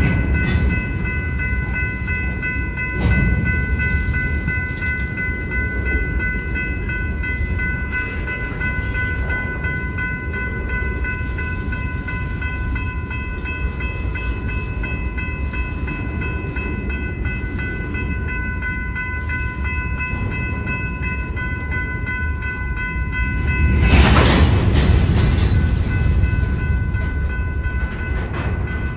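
Freight train of covered hopper cars rolling through a grade crossing: a steady rumble and rattle of steel wheels on rail, under the continuous high ringing of the crossing's warning bell. A louder rush of rolling noise swells for a couple of seconds near the end.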